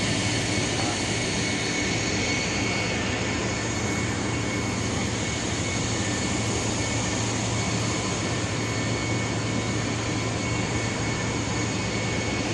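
A boat's engine running steadily: a continuous drone with a low hum and a few fixed higher whines, unchanging throughout.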